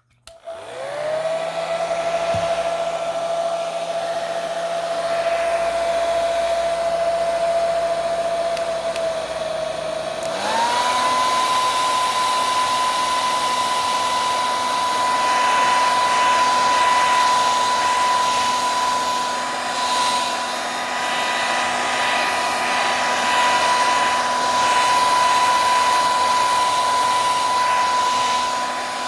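Handheld blow dryer on its cool setting switched on, its motor spinning up to a steady whine over a rush of air. About ten seconds in it is switched to a higher speed: the pitch steps up and holds there.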